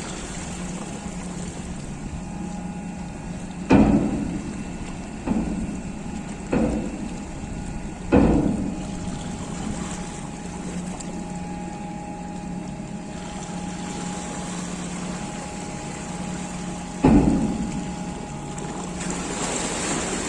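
Ship's ramp door being hoisted: a steady hum of lifting machinery with five heavy knocks, each ringing off briefly. The knocks come about 4, 5, 6.5 and 8 seconds in, and once more near the end.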